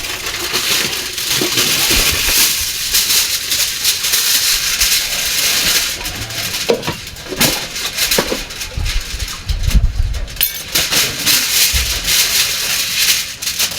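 Crinkly rustling of food wrapping being handled and folded, with a few light knocks mixed in.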